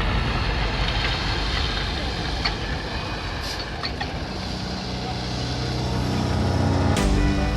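Heavy vehicle engine running with road noise; a steady low hum comes in about halfway through and grows slightly louder.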